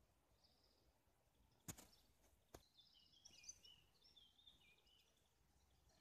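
Faint outdoor birdsong: high, quick chirping calls that are busiest from about three seconds in. Two sharp clicks about a second apart, a little before that, are the loudest sounds.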